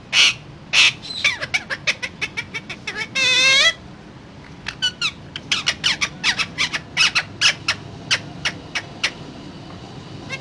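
Pet parakeet calling: a run of short, sharp calls, one longer wavering squawk about three seconds in, then a fast string of short calls.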